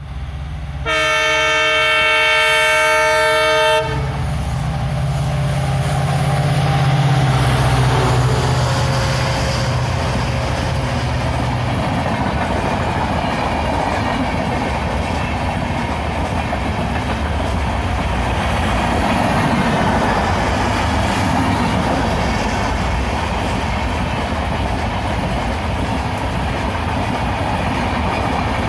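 A WDP4D diesel locomotive sounds its multi-tone horn for about three seconds, then passes with a heavy low engine rumble. From about twelve seconds on, the coaches roll past with a steady, even rolling noise.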